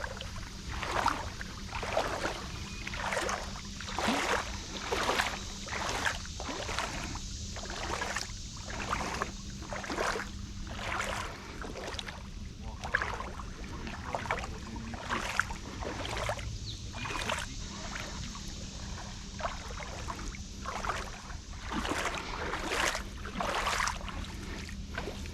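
Legs wading through creek water, a steady run of splashing swishes about one a second as the wader strides along.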